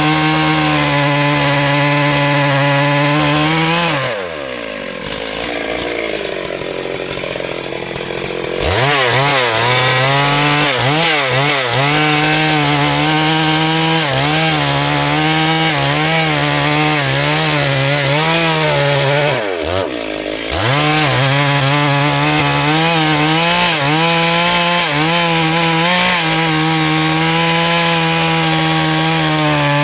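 Chainsaw engine running at high revs. It drops toward idle about four seconds in and picks up again about four seconds later. From then its pitch wavers up and down as the chain cuts into wood, with a brief easing of the throttle about twenty seconds in.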